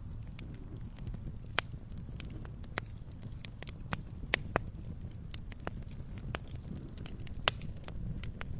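Wood campfire burning: a low steady rumble of flames with irregular sharp crackles and pops, the loudest pop about seven and a half seconds in.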